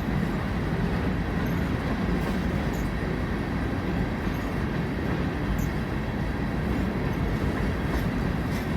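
Empty freight cars rolling slowly past on the rails as they are shoved backwards, a steady low rumble with faint scattered clicks.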